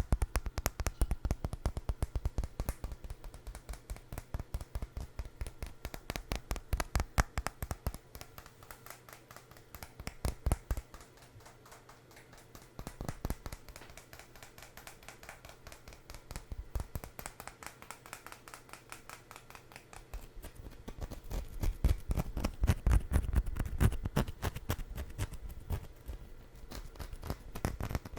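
Fingers rapidly tapping and scratching on food items, a dense run of sharp clicks and taps, with a heavier, louder stretch about two-thirds of the way through.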